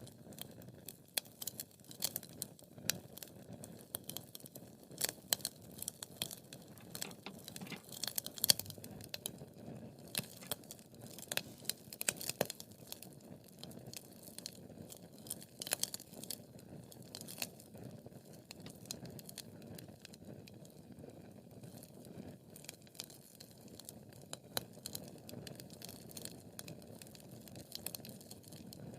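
Wood fire crackling: a low steady rushing of flames with frequent sharp, irregular pops and snaps from the burning logs.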